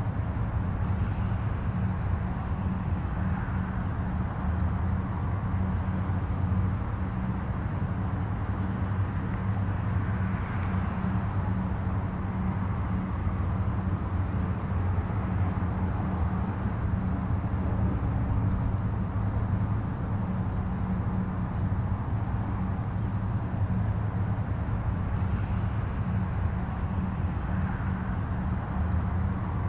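Distant highway traffic: a steady low rumble of tyres and engines, with soft swells every few seconds as individual vehicles pass.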